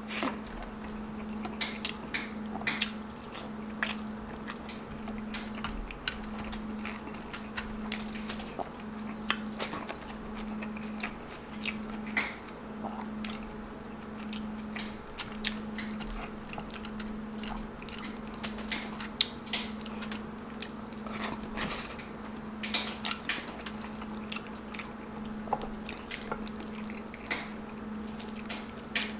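A man chewing and biting mouthfuls of beef kaldereta stew and rice, with frequent short mouth clicks, over a steady low hum.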